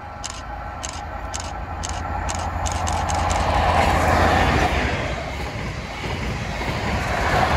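A train passing over a level crossing at speed, its rushing rail noise swelling to a peak about four seconds in and again near the end. At the start the crossing's warning alarm is still pulsing about twice a second, then it is drowned out by the train.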